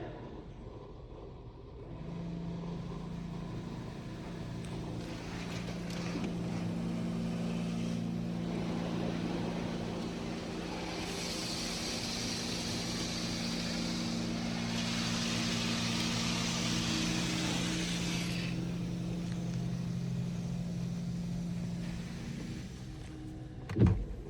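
PDQ ProTouch Tandem touchless car wash running, heard from inside the car. A steady machine hum starts about two seconds in, and the car is sprayed with water twice in the middle, a hissing rush each time. Two loud thumps come near the end.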